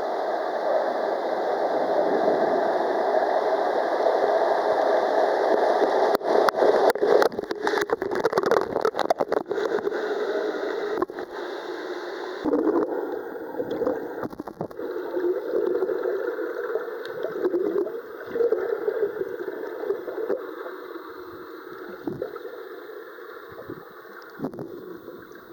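Water rushing and splashing close around a waterproof camera at a water park, with a run of sharp crackles and knocks in the middle and an abrupt change in the sound about halfway.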